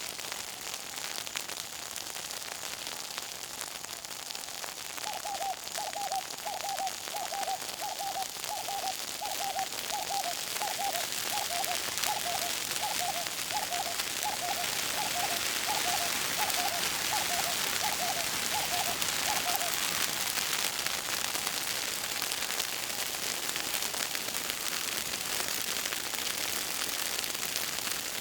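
Bush fire crackling and hissing, the crackle thickening and growing louder about halfway through. A bird calls a long run of short repeated notes, about two a second, from about five seconds in until about twenty seconds.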